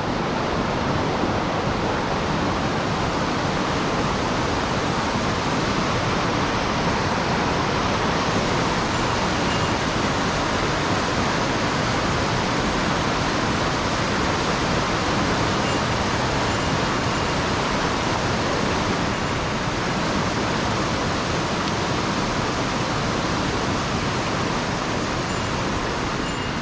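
Fast mountain stream running high after rain: a steady rush of water with no breaks.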